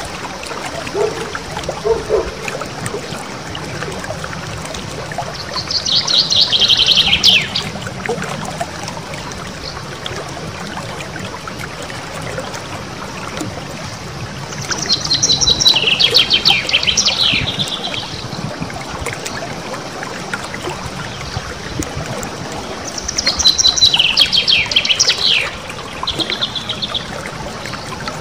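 A small songbird singing three bouts of rapid, sharply repeated high notes run together into a rolling trill that slides down in pitch. A steady sound of running water continues underneath.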